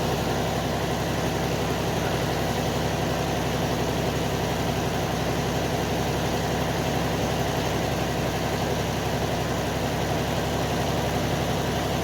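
Tractor engine running at a steady speed, an even low chug with no change in pitch.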